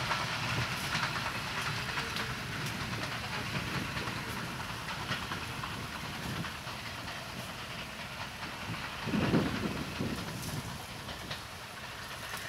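Passenger coaches of a broad-gauge train running away along the track, the wheels clicking on the rails, slowly fading as the last coach recedes. There is a brief louder rumble about nine seconds in.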